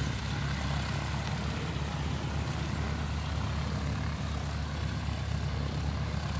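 Small propeller airplanes' piston engines running steadily at low power, a constant low drone with no change in pitch.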